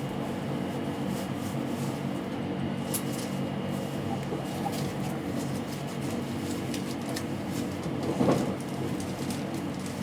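Steady running noise inside a 683 series electric limited-express passenger car: a low hum with a faint high whine and scattered light clicks, and one brief louder knock about eight seconds in.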